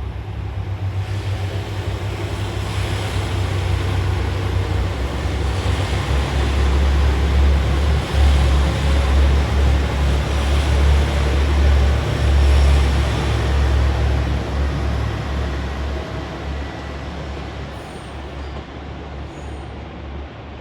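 A train passing through a station: a heavy low drone with rumbling noise above it that builds over the first several seconds, is loudest in the middle, and fades toward the end.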